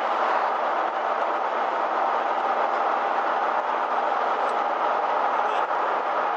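Motorhome being driven, heard from inside the cab: steady engine and road noise.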